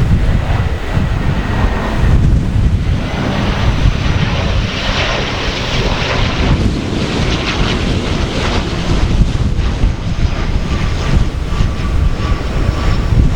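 Strong gusty wind buffeting the microphone, with a Japan Air Commuter ATR 42-600 twin turboprop's engines and propellers heard through it. The aircraft noise swells a few seconds in, with a thin high whine over it.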